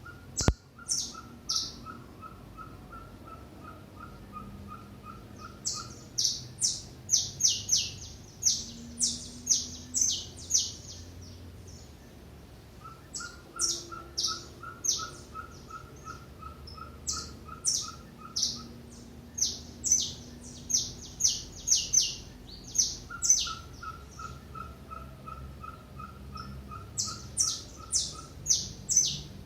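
Small wild birds chirping in quick bursts of short, high calls, with a lower, evenly paced series of notes coming three times. There is a single sharp click about half a second in.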